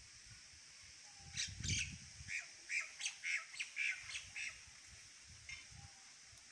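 A bird calling: a quick run of about ten short chirps over some three seconds, starting about a second and a half in.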